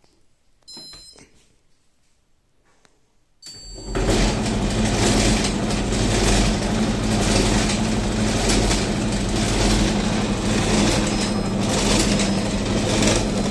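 A short beep about a second in, then about three and a half seconds in a Candy tumble dryer starts and runs loudly and steadily, its drum turning with a low hum and a faint regular pulse. The noise comes from a worn drum bearing.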